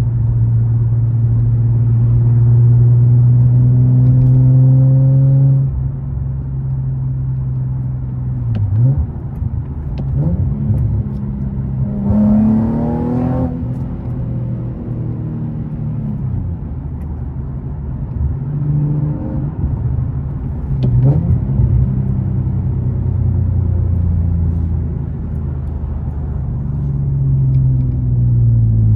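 Infiniti G37's 3.7-litre V6 engine heard from inside the car while driving. Its pitch climbs steadily under acceleration for about five seconds, drops, then rises and falls with the throttle several times, with a sharp climb about halfway through, and falls away near the end.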